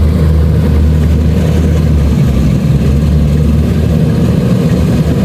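Kubota DC-70 Plus combine harvester's diesel engine running steadily under a low hum. Its low note shifts slightly about two seconds in.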